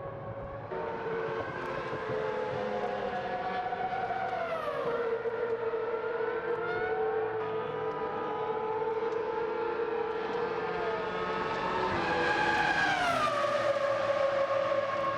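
Ferrari racing car engines running at high revs on the circuit, several at once. Their pitch falls steeply about four seconds in and again near the end, as cars pass or come off the throttle; the later drop is the loudest.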